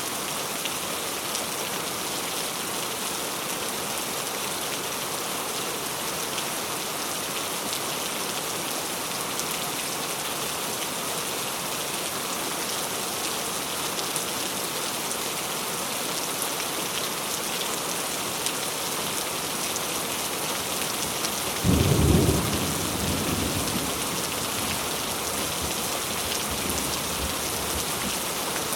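Heavy rain falling hard and steadily, with a single sudden thunderclap about three-quarters of the way through that rumbles away over a few seconds.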